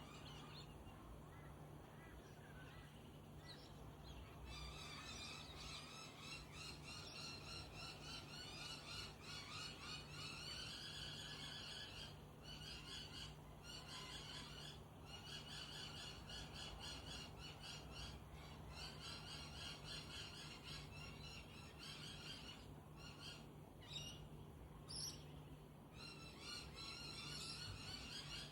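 Dawn chorus of many small birds chirping rapidly, faint, with a couple of brief rising whistles near the end. A steady low hum runs underneath.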